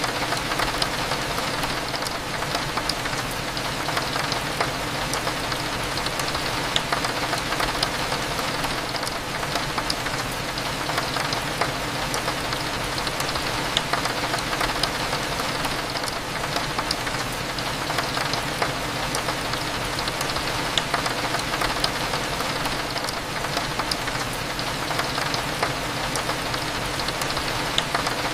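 Steady rain falling against a window, with scattered raindrop ticks, over a low, even cafe hum.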